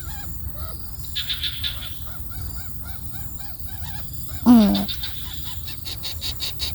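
Birds calling: runs of quick repeated chirps, about four or five a second, with a rapid buzzy rattle, and about four and a half seconds in a loud call that falls steeply in pitch.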